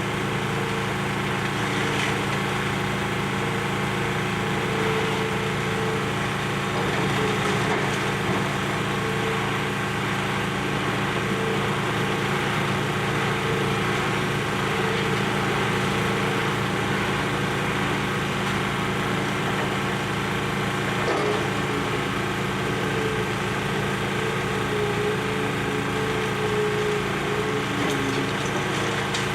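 Excavator's diesel engine running steadily under load, with a higher tone that comes and goes and a few faint knocks.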